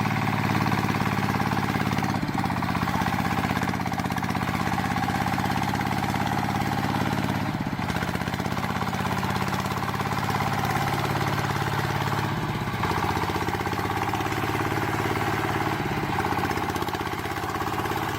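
Small engine running steadily at idle, with small shifts in pitch every few seconds.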